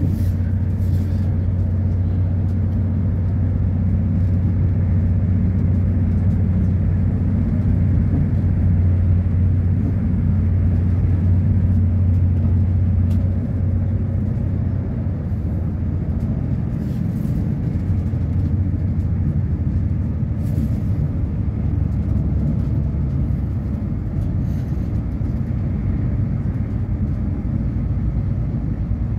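Inside a moving diesel passenger train: a steady low drone and rumble from the engines and the wheels running on the track. The low hum eases a little about halfway through.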